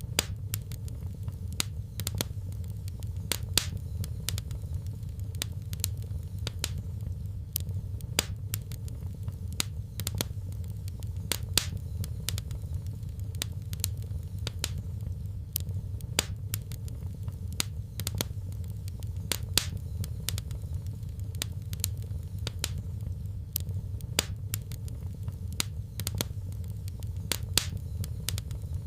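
Fireplace fire crackling: several sharp pops and snaps a second over a steady low rumble.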